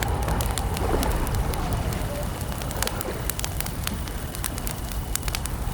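Campfire crackling: many sharp pops and snaps over a low steady rumble of burning wood, with crickets chirping faintly and calm lake water lapping softly underneath.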